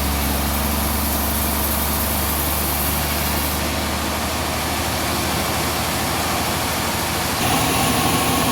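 An engine running steadily, with a low hum, growing a little louder near the end.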